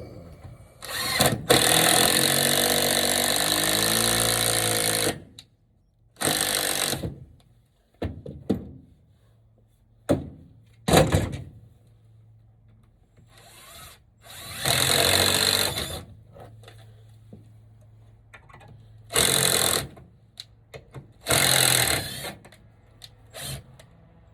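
Power drill running in several separate bursts, the first about four seconds long and the rest about a second each, with a few sharp knocks between them.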